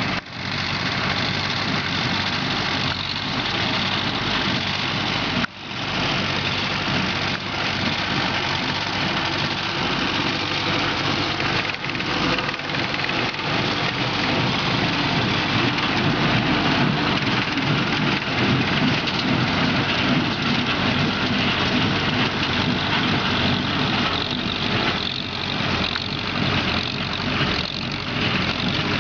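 Minneapolis-Moline ZAU tractor's engine running steadily under load, mixed with the mechanical clatter of the Allis-Chalmers baler it is pulling through hay. The sound drops out briefly about five seconds in.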